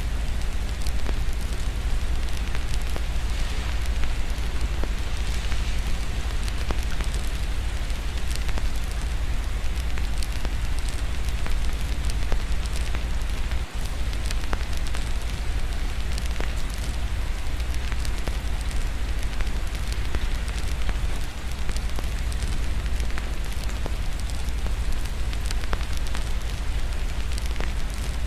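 Wood fire crackling in a fireplace, with many small pops over steady rain and a constant low rumble underneath.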